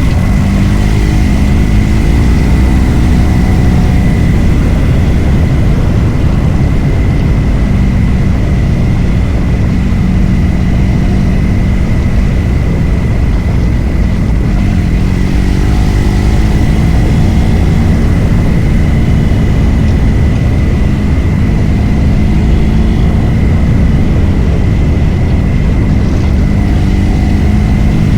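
Adventure motorcycle riding along at a steady speed: the engine drones evenly under heavy wind rush, with a thin steady high whine throughout.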